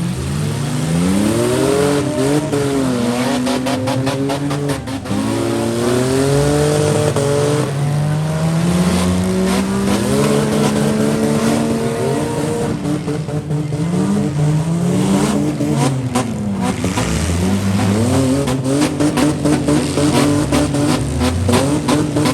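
Several stock van, truck and SUV engines revving up and down at once during a demolition derby, their pitch rising and falling as the drivers accelerate and back off. Clusters of sharp impacts are mixed in, early on and again in the last third.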